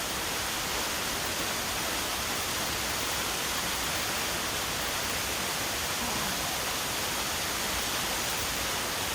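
Waterfall rushing, a steady hiss of falling water with no breaks.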